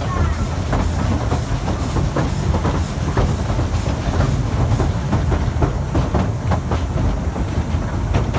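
Efteling's narrow-gauge park steam train running: a steady low rumble with clattering wheel knocks, and a regular high hissing beat about two to three times a second that fades out about five seconds in.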